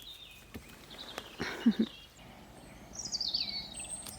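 Wild birds singing in a morning woodland: scattered chirps, then a run of quick descending trills near the end. A short low sound breaks in about a second and a half in.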